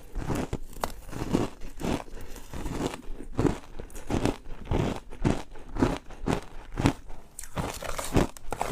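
Ice being bitten and chewed close to the microphone: a steady run of crunches, about two a second.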